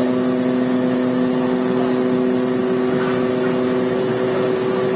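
A long, steady horn blast, a single held chord, cutting off near the end, over rushing wind and water noise.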